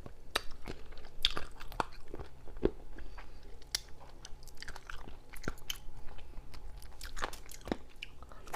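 A person chewing and biting into seafood close to the microphone, with irregular sharp crunchy clicks.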